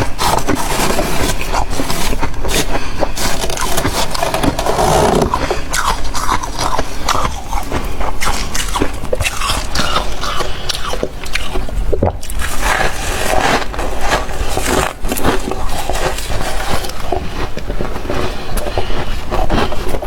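Freezer frost being bitten and chewed close to the microphone: a constant rapid run of crisp crunches and scrapes.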